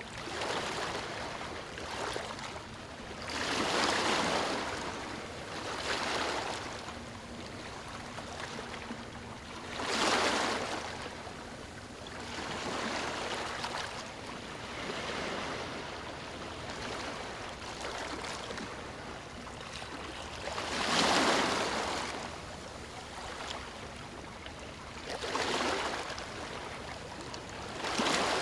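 Ocean waves breaking and washing up on a beach. They come in swells of surf every few seconds, the biggest about 4, 10 and 21 seconds in.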